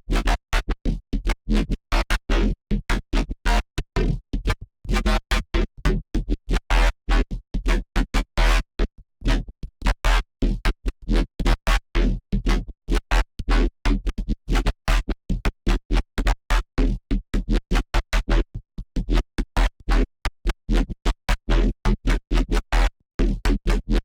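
Serum software synthesizer patch built from an image-derived wavetable, played as a rapid run of short, choppy electronic notes with a strong sub-bass underneath, cut by brief gaps.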